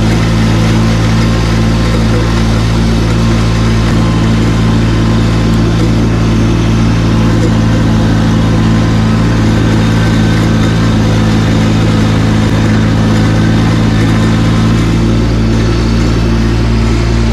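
Tractor engine running steadily at working speed, powering a snowblower while clearing snow.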